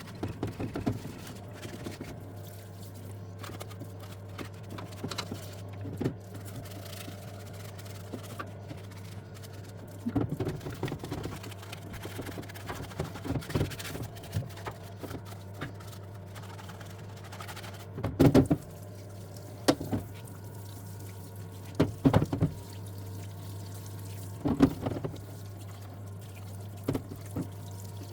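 Parts washer at work on a Kawasaki EX250 engine case: solvent pouring and splashing over a steady hum, with several sharp knocks as the case is moved about in the washer tray.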